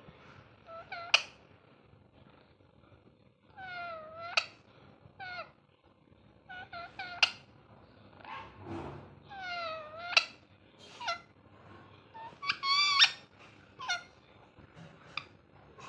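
Ringneck parrot calling: a string of about a dozen short squawks and chattering calls, some ending in a sharp high note, the loudest a longer call about two-thirds of the way through.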